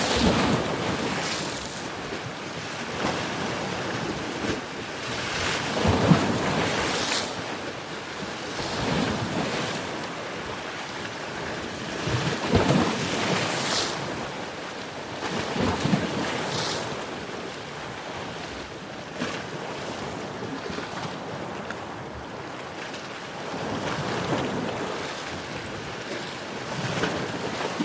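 Ocean waves breaking and washing in, swelling and fading every few seconds, with wind.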